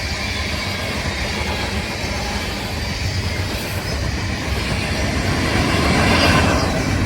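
A train rolling past, a steady rumble of wheels on the rails that grows louder about six seconds in.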